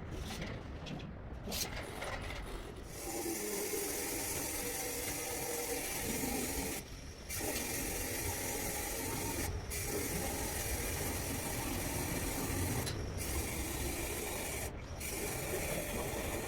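A power tool running with a steady high hiss and a pitched hum beneath it, starting about three seconds in and cutting out briefly four times.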